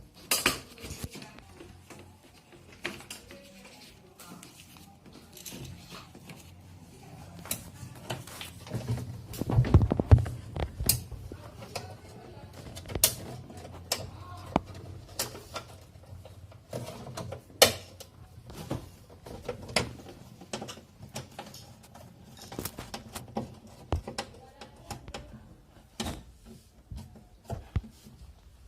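Hands and tools working on a refrigerator thermostat and its capillary pipe: scattered clicks, taps and light metal clatter, with a louder stretch of rubbing and knocking about ten seconds in.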